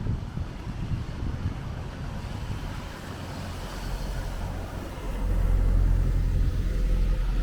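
Road traffic on a wet city street: a steady hiss, with a low engine rumble that swells about five seconds in as a heavy vehicle passes close by.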